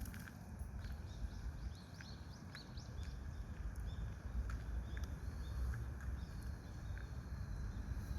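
Small birds calling: a quick run of short, high, sliding calls about a second in, then a few thin drawn-out high notes, over a steady low outdoor rumble.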